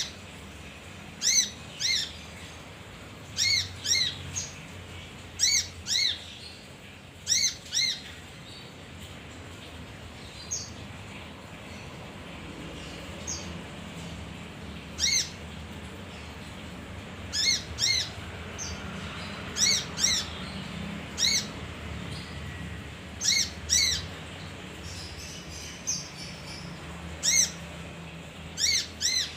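Male kinoi bird calling: short, sharp, clear chirps, often in quick pairs, repeated every second or two with gaps of several seconds between runs.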